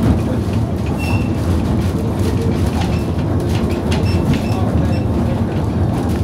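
Railway carriage running along the track, heard from inside: a steady rumble of wheels on rails with irregular clicks and a few brief high squeaks.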